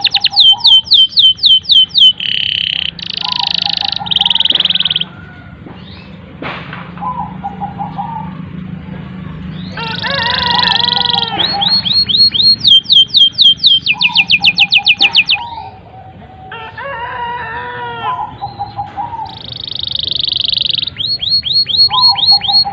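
Domestic canary singing a long, continuous song: fast rapid-fire trills and rolls, switching to a new phrase every second or two, with quieter warbling passages in between.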